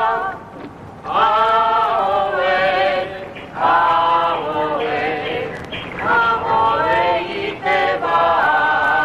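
A group of voices singing a Polynesian paddling chant in held phrases, with short breaths between them.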